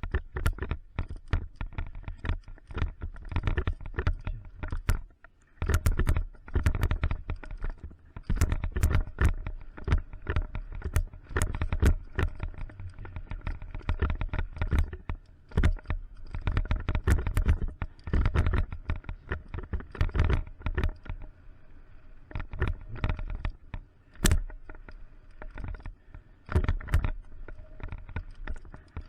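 Mountain bike riding down a rough trail: frequent sharp knocks and rattles as the bike goes over bumps and roots, over a heavy low rumble of wind on the microphone.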